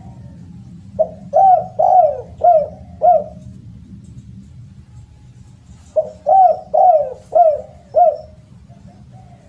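Spotted dove (derkuku/tekukur) cooing loudly. There are two phrases of about five quick coos each: one begins about a second in, the other about six seconds in.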